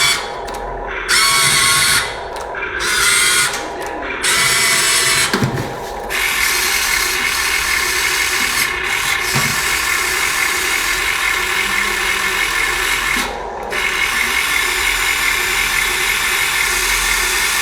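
Electric motor and hydraulic pump of a remote-controlled excavator whining as the boom and arm are worked, starting and stopping in short bursts for the first six seconds, then running continuously with one brief break about thirteen seconds in.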